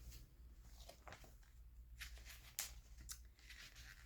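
Near silence with a few faint, brief paper rustles from magazine pages being handled and turned, the clearest about two and a half and three seconds in.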